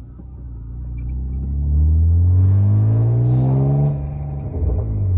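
A BMW 328i's 2.8-litre straight-six running through a Remus aftermarket exhaust, heard from inside the cabin as the car accelerates. The engine note rises steadily in pitch and loudness for about three seconds, then falls away about four seconds in as the throttle is lifted.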